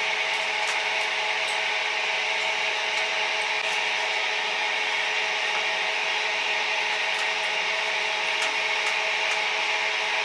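Chicken grilling over charcoal: a steady sizzling hiss with a faint hum beneath and scattered small crackles.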